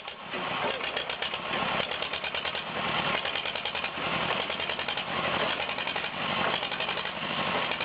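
A vehicle engine running steadily, with a fast, rough flutter.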